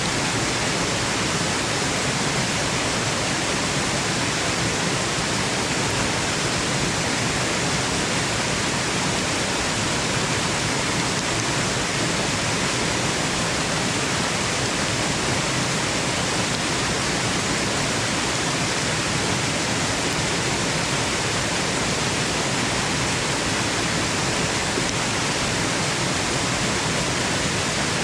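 Waterfall: a steady, unchanging rush of falling water, even and hiss-like, with more brightness than depth, used as white noise for sleep.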